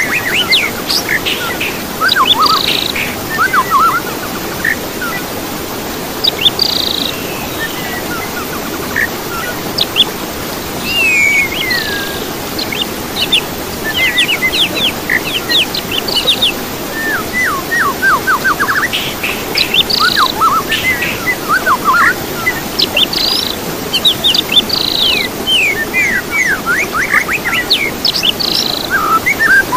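Songbirds singing: bursts of quick, sweeping whistles and short chirps that come again every few seconds, over a steady low background hiss.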